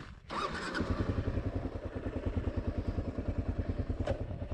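Kawasaki KLR 650's single-cylinder engine idling at a standstill, a steady rapid pulse of about a dozen beats a second that comes up about a second in.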